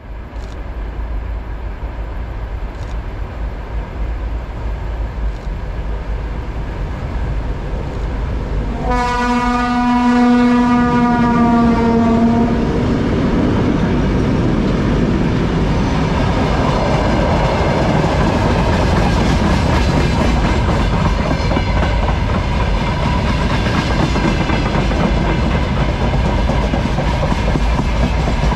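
A train approaching and passing, sounding one long horn blast of about three and a half seconds roughly nine seconds in, then running loudly past the recording point.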